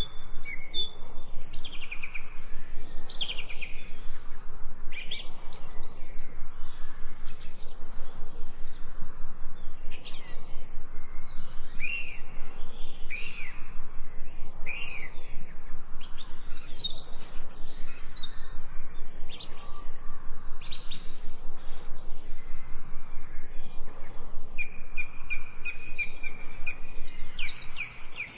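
Several songbirds singing and chirping at once, a dense chorus of short, high notes, many sliding downward. Near the end one bird sings a quick run of repeated notes.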